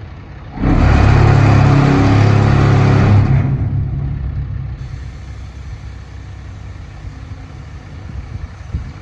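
Diesel engine of a 2025 Kenworth T880 dump truck idling, revved sharply about half a second in and held for about three seconds, then easing back down to idle.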